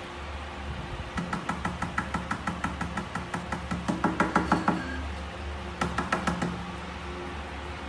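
Fingers tapping rapidly on a glass tabletop, about six taps a second and growing louder. The tapping stops, then comes back in a shorter run, over a low steady hum.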